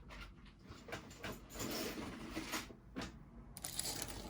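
Jewelry and its packaging being handled on a table: rustling with a few light clicks and knocks.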